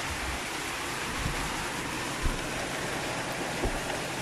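Heavy rain pouring down steadily, with runoff water streaming and splashing. A few brief low thumps sound about a second in, around two seconds in and near the end.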